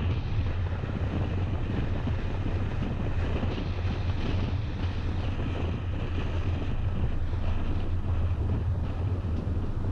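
Steady road noise from a moving car: a constant low rumble with wind rushing over the microphone.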